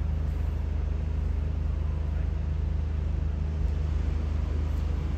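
A motor vehicle engine idling: a steady low hum with a fine rapid pulse.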